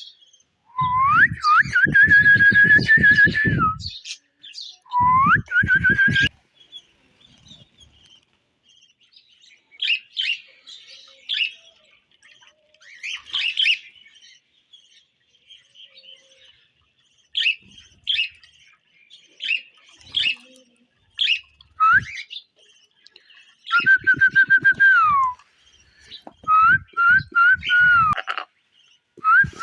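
A parrot whistling and chirping: loud whistled notes that swoop up and then hold steady for a second or more, a few times near the start and again near the end, with quieter short chirps in between.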